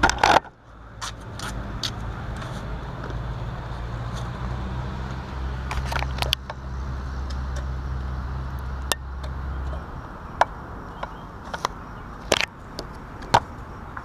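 Yamaha FZ-07's 689 cc parallel-twin engine idling low and steady, then cut off abruptly about ten seconds in. Sharp clicks and knocks of handling sound throughout, loudest in a clatter at the very start.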